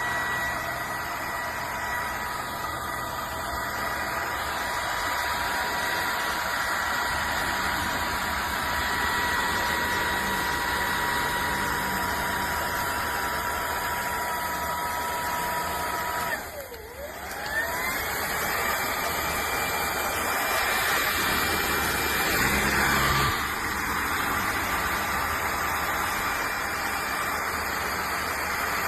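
Cordless stick vacuum's motor running with a steady high whine over a rush of airflow. About two-thirds of the way through, the whine dips sharply as the motor spins down, then climbs back up and settles at a higher pitch.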